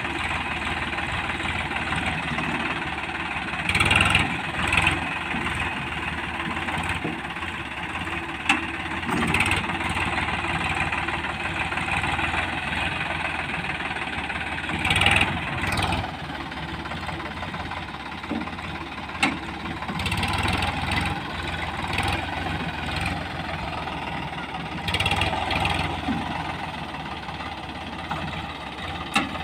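Diesel engine running steadily, with a few sharp knocks standing out above it.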